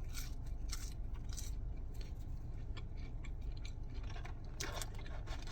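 McDonald's fries being chewed close to the microphone, with irregular small mouth clicks, over a steady low hum.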